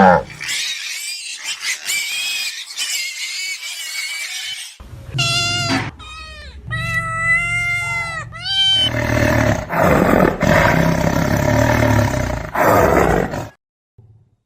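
A series of wild animal calls and roars in separate bursts. First a rough, high call, then two stretches of pitched, wavering cries about five and seven seconds in, then harsher roaring calls that stop abruptly a second before the end.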